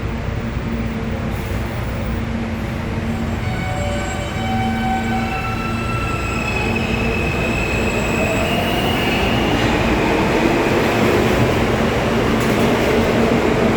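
New York City subway E train pulling away from the station: the traction motors give a climbing series of stepped tones, then a rising rumble as the train gathers speed and grows louder.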